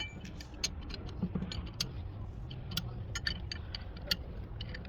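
Irregular light clicks and clinks, a dozen or so, over a low steady rumble.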